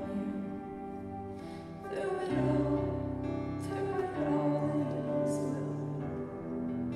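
Live worship band playing a soft, slow passage: held chords that change every second or two.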